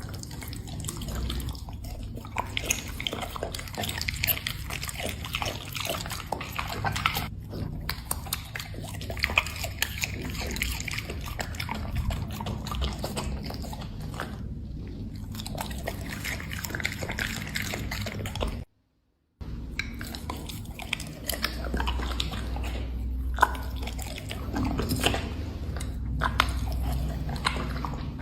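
Black Labrador chewing and smacking on food, a dense run of wet, irregular clicks and bites, broken by a brief gap of silence about two-thirds of the way through.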